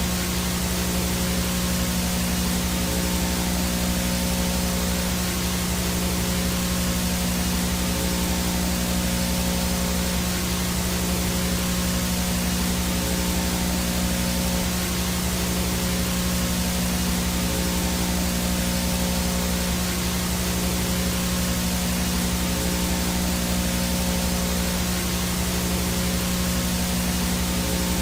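VHS static noise from a snowy analog video signal with interference: a steady hiss with a low buzzing hum under it and a faint high whine.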